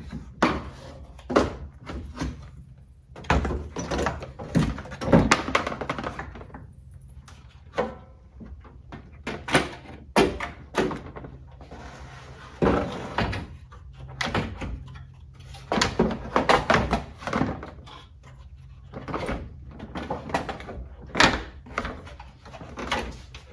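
Irregular knocks and clunks of a plastic radiator fan shroud and radiator being worked into place in a pickup's engine bay, over a steady low hum.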